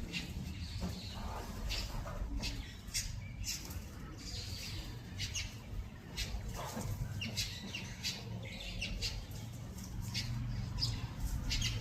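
Birds chirping in short, scattered calls while feeding on swarming termites, over a low steady hum.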